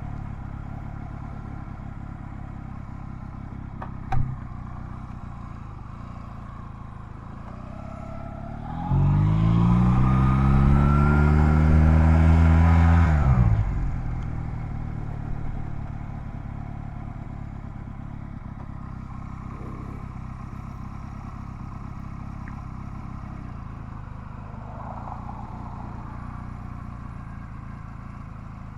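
Honda Rebel 250 motorcycle engine running steadily, then about a third of the way in it accelerates hard, its note climbing in pitch for about four seconds before dropping back to a steady run.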